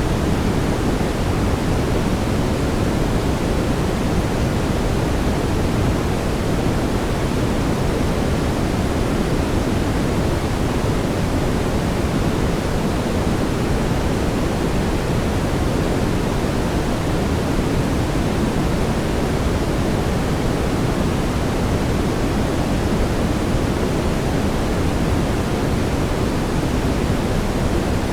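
Steady brown noise: an even, unchanging rush weighted toward the low end, with no tones or events.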